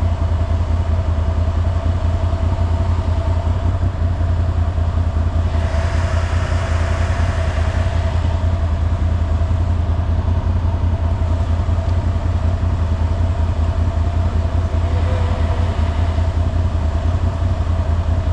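ATV engine idling steadily with a constant low hum. Two brief swells of hiss come through about six and fifteen seconds in.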